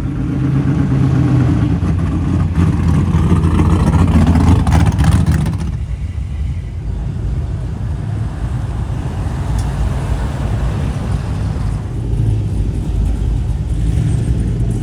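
A classic car's engine running as it drives past, growing louder to a peak about four to five seconds in and falling away about six seconds in. A second car's engine comes up near the end.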